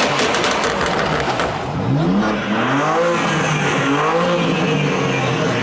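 Car engine revved in repeated blips over a steady idle, its pitch rising and falling about three times, with a rapid crackle in the first second or so.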